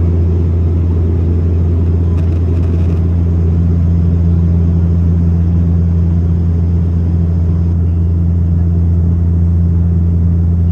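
Airliner cabin noise in flight: a loud, steady low drone of engines and airflow heard from inside the passenger cabin.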